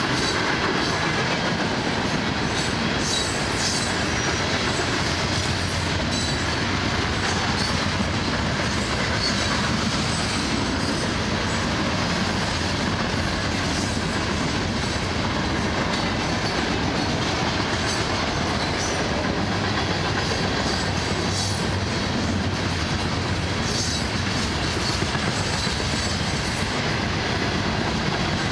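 CSX freight train's covered hopper cars rolling past in a steady rumble, wheels clicking over the rail joints now and then.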